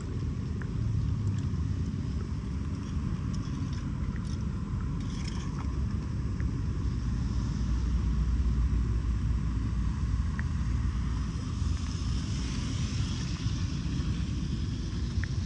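Floodwater draining into a storm drain: a steady low rumble with a faint hiss above it and a few small ticks, swelling slightly in the second half.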